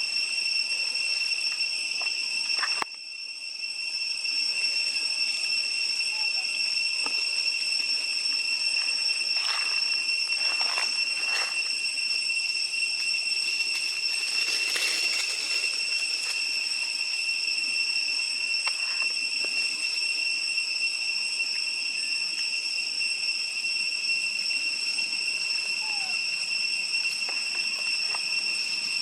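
A steady, high-pitched buzzing drone that cuts out briefly about three seconds in and swells back, with a few faint knocks and a short rustle partway through.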